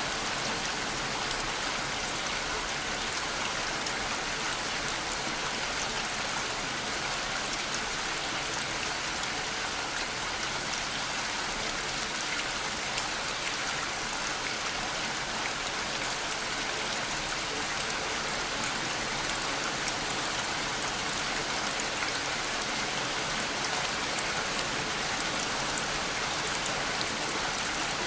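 Steady rain falling, an even hiss of rainfall with many small drop ticks and no change in strength, played as a constant white-noise backdrop.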